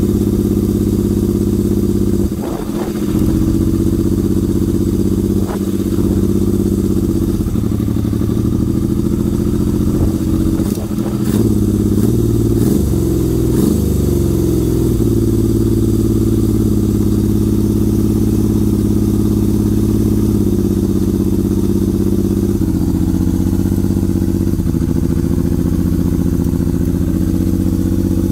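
1977 Yamaha XS750-2D's three-cylinder engine running through a Jardine exhaust, idling with a few short rises and falls in revs in the first half, then holding a steady idle. The engine is running again after sitting since 1986, and running smoothly.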